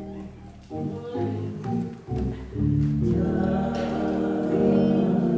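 Gospel church music starting up: sustained organ and keyboard chords come in under a second in and swell louder about two and a half seconds in, with a choir singing.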